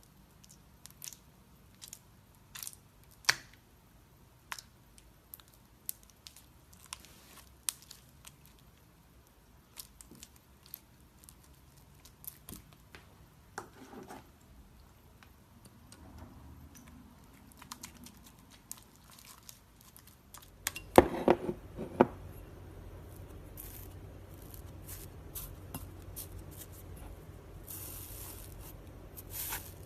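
Slime being stretched and squished, with scattered sticky pops, crackles and tearing sounds and a louder burst of them about twenty-one seconds in. A steady low hum comes in near that burst and stays.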